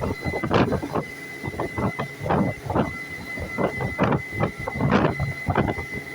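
Boat under way: irregular rushes of water and wind every half second to a second over a steady high whine.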